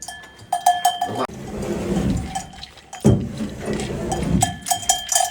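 A cow's bell clanking in quick, repeated strikes as the cow moves: one spell of about a second at the start and another near the end, with a duller shuffling noise between them.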